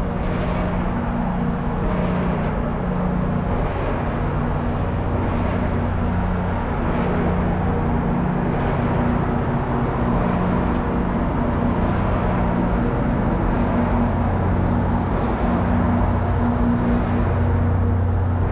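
NorthStar commuter train running: a steady low hum and rumble, with a faint regular tick about every second and a half.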